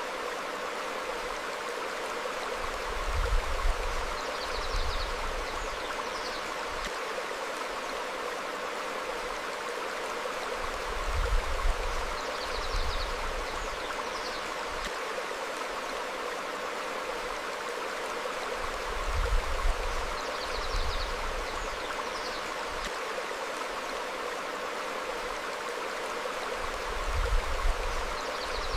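Steady rush of a stream flowing over rocks. Brief high bird chirps and short low rumbles come back about every eight seconds, the rumbles being the loudest moments.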